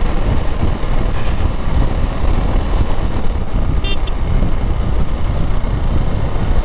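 Riding noise from a KTM Duke 390 motorcycle moving through traffic: a steady, dense rumble of wind, engine and road. About four seconds in there is a short, high-pitched beep.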